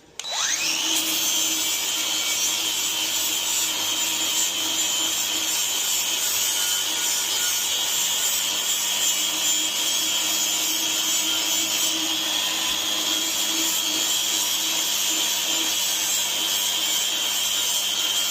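An electric power tool starts, its motor rising in pitch over the first second, then runs steadily with a high whine over a rough rasping noise.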